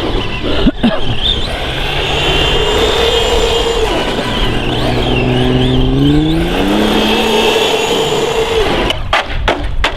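Brushless electric motor of a Vaterra Halix 1/10-scale RC monster truck whining as it drives, over tyre and ground noise; midway the whine rises in pitch as it speeds up. Near the end comes a quick run of sharp knocks.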